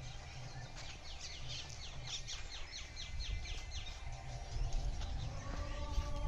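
A bird calls a quick run of short, falling chirps, about five a second, over a low rumble.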